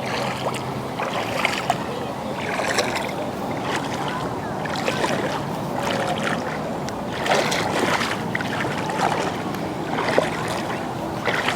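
Shallow lake water sloshing and splashing irregularly around legs as someone wades.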